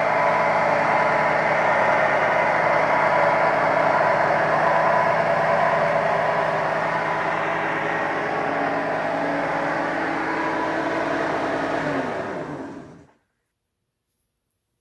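Mercury 3.0 L inline four-cylinder marine engine idling steadily, a little fast while still cold. About twelve seconds in it is switched off, its pitch sinks as it winds down, and it stops within a second.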